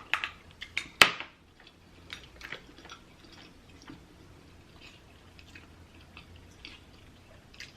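Close-up eating sounds of chewing a butter-sauced mussel: small wet smacks and clicks, with one sharp click about a second in.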